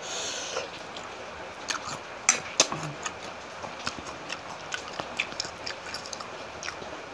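Close-up mouth sounds of eating: irregular wet clicks and smacks of chewing with an open mouth, and a short hiss of breath at the start. The spice is burning her mouth.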